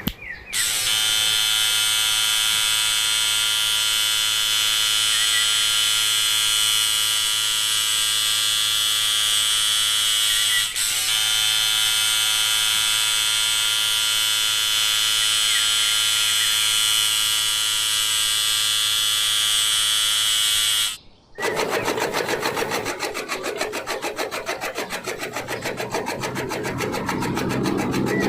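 A small electric motor running with a steady whine for about twenty seconds, with one brief dip in the middle. It cuts off, and a rougher, rapidly ticking motor buzz follows.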